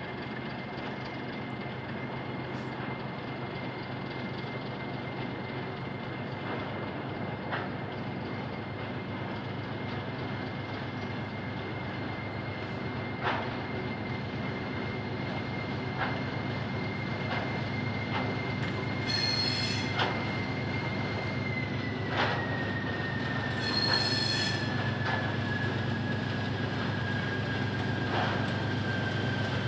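A diesel-hauled freight train approaching. Its wheels give a steady high squeal that drops slightly in pitch about two-thirds of the way through, over a low engine rumble that slowly grows louder, with scattered clicks from the wheels. Two brief shrill chirps come near the end.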